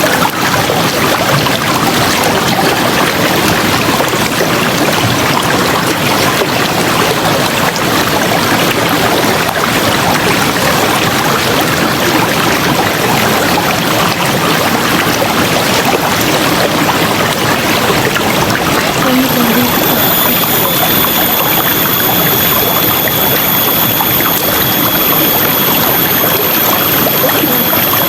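River water flowing steadily, a dense, even rush. About two-thirds of the way through, a thin, high, steady whine comes in over it.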